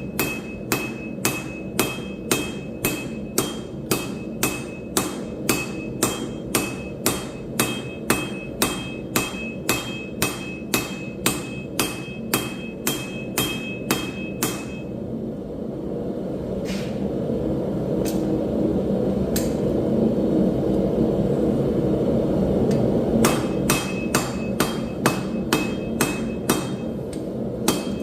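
Hammer forging steel on an anvil: evenly spaced blows about two a second, each with a bright ring. About halfway through the blows stop for some eight seconds under a steady low roar, broken by two lone knocks, then the hammering resumes.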